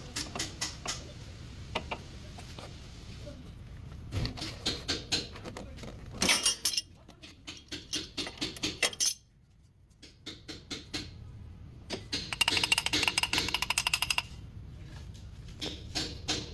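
Clicks and metallic knocks of hand tools working on steering parts, with a fast run of clicks lasting about two seconds near the end.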